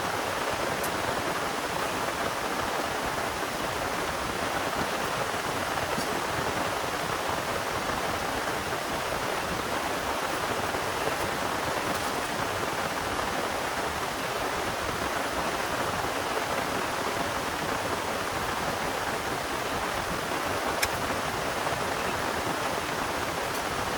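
Heavy rain falling steadily, a dense, even hiss, with a few faint sharp ticks of drops striking something close by.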